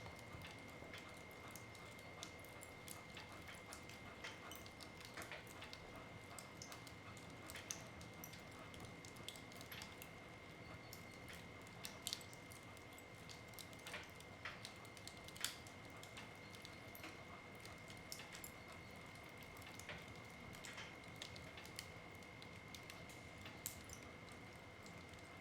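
Wood fire in a fireplace crackling softly, with sparse irregular pops and snaps of burning wood, a few sharper ones standing out. A faint steady high whine runs underneath.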